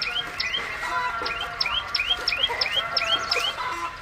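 A small bird chirping rapidly and repeatedly, each call a sharp high note followed by a lower upward-flicking one, about three calls a second, with lower drawn-out calls from other birds underneath.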